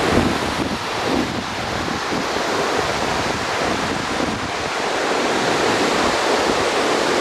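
Ocean surf breaking and washing on a beach, a steady rush with slow swells.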